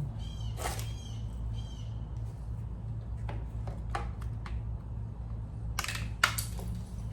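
Scattered clicks and knocks of small engine parts being handled and fitted during pressure-washer carburetor reassembly, the sharpest one about six seconds in, over a steady low hum. A short series of high calls sounds about a second in.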